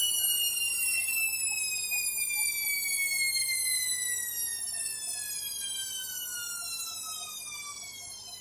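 Candy washing machine's motor whining as the drum coasts down from a spin, one steady tone with overtones falling in pitch as the sound fades.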